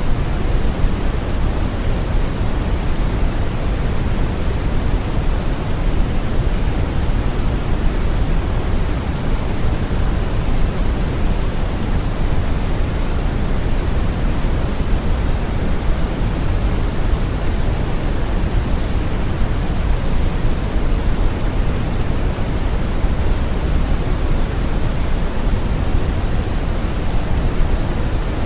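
Steady, deep brown noise: an even rushing hiss weighted toward the bass, with no changes or events.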